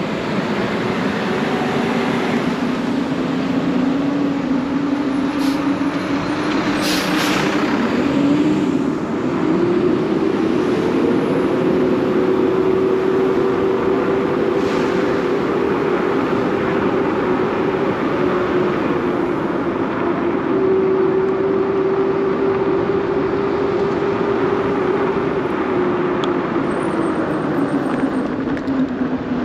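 A bicycle in motion: a steady hum rises in pitch about ten seconds in, holds, and falls near the end as the speed changes, over a continuous rush of wind and rolling noise, with a few brief clicks early on.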